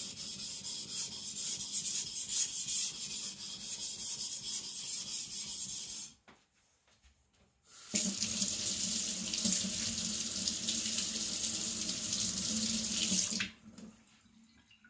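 Steel knife blade stroked back and forth over a coarse 400-grit waterstone in a quick, even rhythm for about six seconds, grinding metal off. After a brief pause a water tap runs steadily for about five seconds, then shuts off.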